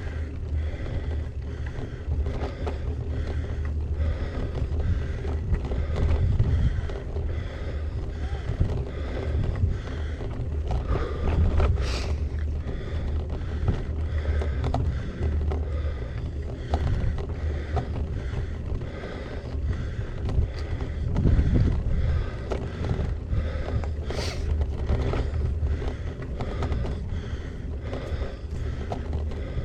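Wind rumbling on a GoPro's microphone while a gravel bike is ridden over a rough track, with the bike rattling and ticking steadily over the bumps. Two sharper knocks stand out, one about twelve seconds in and another some twelve seconds later.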